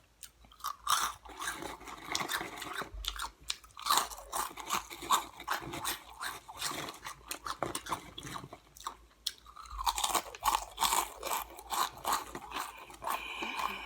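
A person chewing a mouthful of crunchy Flamin' Hot Cheetos, with many irregular crunches and short pauses between bites.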